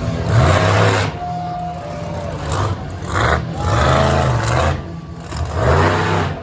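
Monster truck engine revving hard in several surges, its pitch rising and falling with the throttle.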